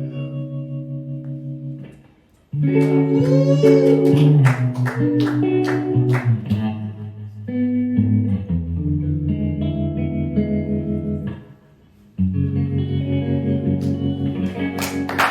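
Guitar playing an instrumental outro of ringing, sustained chords. The sound dies away briefly twice, about two seconds in and again near twelve seconds, before new chords come in.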